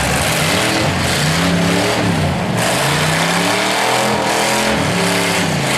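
Demolition derby car engines revving hard, the pitch repeatedly rising and falling as the cars drive and push against each other, over a loud rumble.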